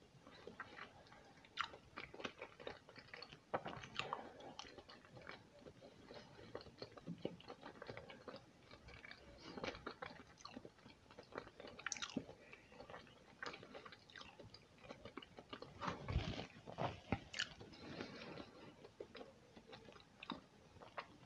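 A person chewing a mouthful of sushi roll close to the microphone, with soft irregular chewing clicks and a louder run of chewing about two-thirds of the way through.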